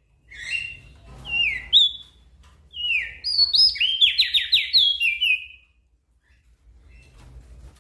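Crested white-eye (opior jambul) singing a fast run of clear, down-slurred whistled notes for about five seconds, then falling silent.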